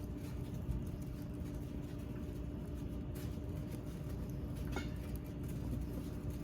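Campfire wood crackling, with scattered small pops and clicks over a low steady rumble and a faint hum.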